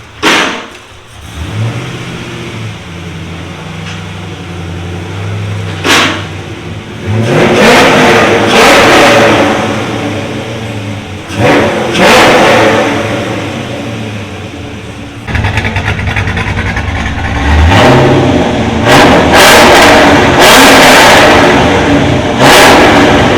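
LS2 V8 engine running through a custom exhaust, settling at idle between repeated revs, some short and sharp, others held for a couple of seconds.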